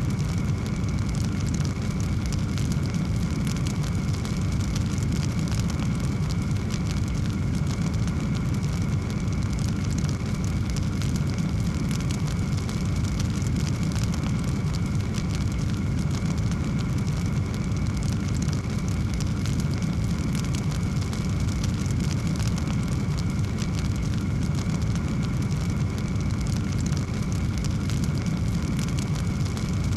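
Wood fire burning in a fireplace: a steady low rumble with constant fine crackling, no single loud pop standing out.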